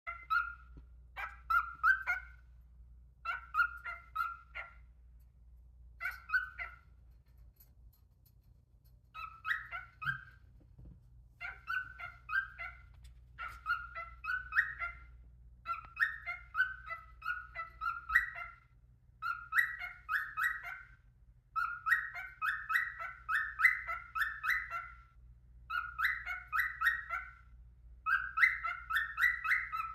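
Cockatiel warming up its voice: short phrases of quick repeated chirping notes, sparse at first, then coming longer and busier toward the end.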